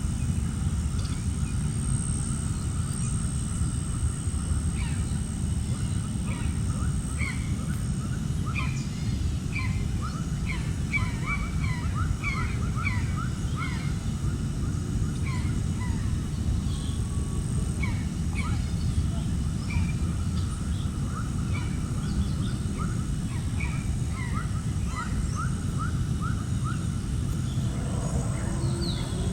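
Birds calling in many short, quick chirps, in scattered runs, over a steady low rumble.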